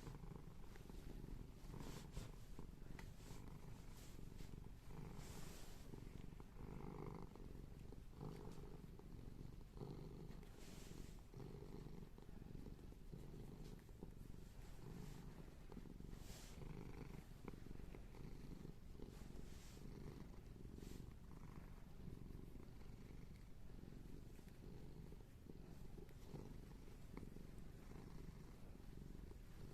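Domestic cat purring, a faint low rumble that swells and eases about once a second with its breathing, with a few soft rustles.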